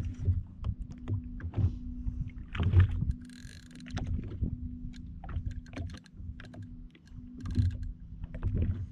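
Water slapping against a jetski's hull, with irregular knocks and clicks from fishing gear being handled, over a steady low hum.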